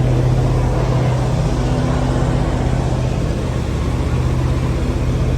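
A passenger boat's engine running steadily, a loud low drone with a constant hum and a wash of noise over it.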